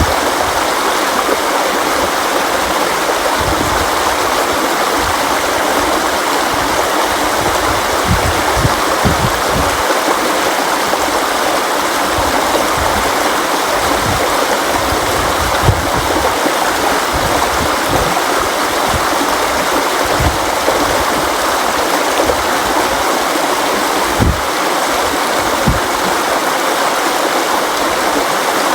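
A river or stream flowing over rocks, a steady rushing with occasional low gurgles and thumps of water.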